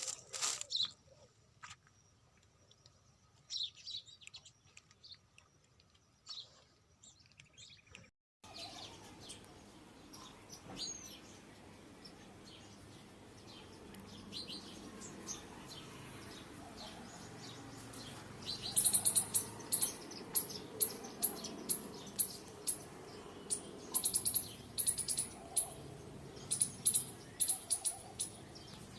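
A flock of small birds chirping in short, high chirps. They are sparse at first, and from about two-thirds of the way in they become a rapid chatter of several chirps a second over a steady background noise.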